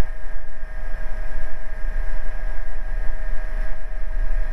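Steady in-flight cabin noise of an AgustaWestland AW119 Koala single-turbine helicopter: a deep, constant drone with a few fixed high whine tones over it.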